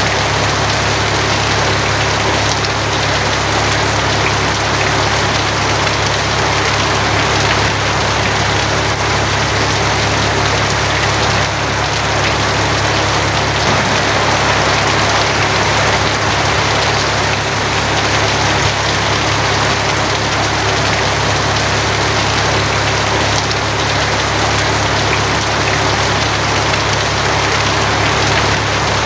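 Steady, heavy rain drumming on a tin roof, with a constant low rumble underneath.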